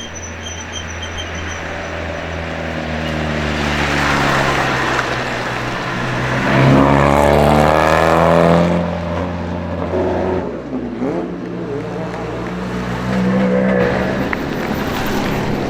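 Hill-climb race car accelerating up the course, its engine revving up through the gears in repeated rising sweeps. It is loudest as it passes about seven to eight seconds in, then drops in pitch and fades as it climbs away.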